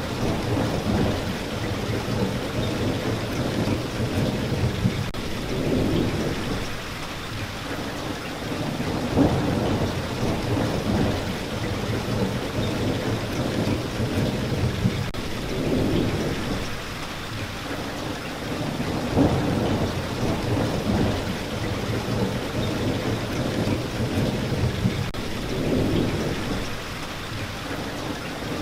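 Steady rain, with low rumbles of distant thunder that swell and fade every few seconds.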